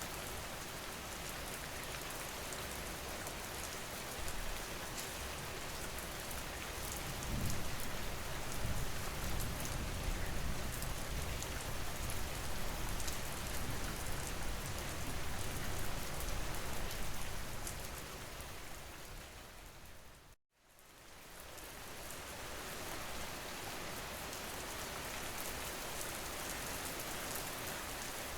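Steady rain falling. About two-thirds of the way through it fades out to a moment of complete silence, then fades back in.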